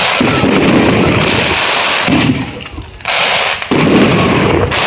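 Fireworks display: a dense, loud barrage of bangs and crackling, easing briefly about halfway through before picking up again.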